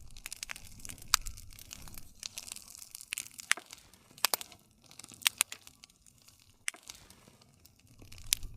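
Wood fire crackling: irregular sharp pops and snaps of burning wood over a soft hiss.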